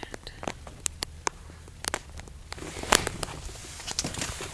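Scattered short clicks and taps over a low steady rumble, the loudest about three seconds in.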